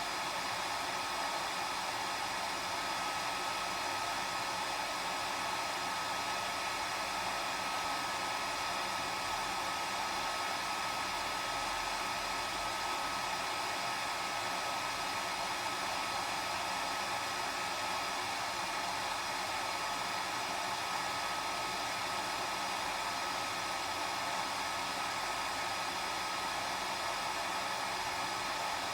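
Hair dryer running steadily: an even whooshing rush of air with a constant high motor whine over it.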